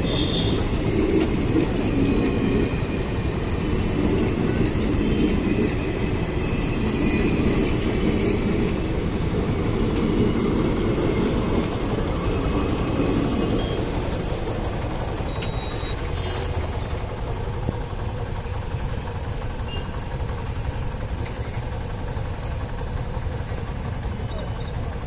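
Passenger coaches of an express train running past on the track, their wheels rolling over the rails close by. About halfway through the noise eases off as the last coach passes and the train moves away down the line.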